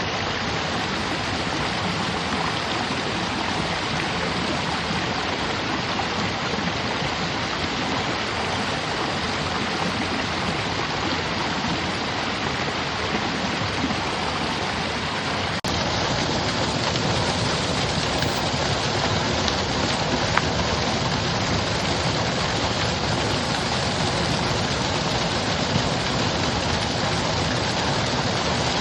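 Mountain stream, water rushing steadily. About halfway through it jumps slightly louder at an edit and then carries on unchanged.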